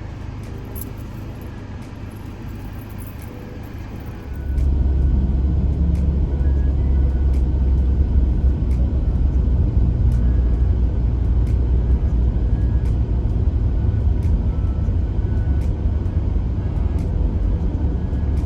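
Car heard from inside the cabin: a steady low engine and road rumble that steps up sharply and stays loud from about four seconds in.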